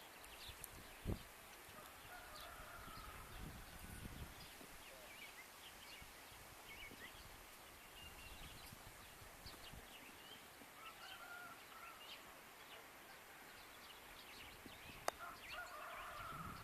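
Faint outdoor ambience of scattered small-bird chirps, with three longer, lower calls from a larger bird. A low rumble of wind on the microphone runs through the first few seconds. There is a dull thump about a second in and a sharp click near the end.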